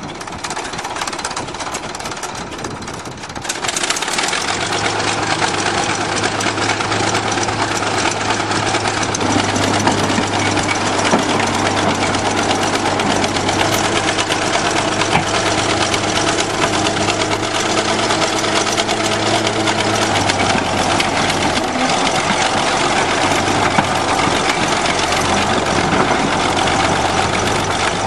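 Bulldozer engine running hard under load, getting much louder about three and a half seconds in and then holding a steady low drone, with continuous rattling clatter over it.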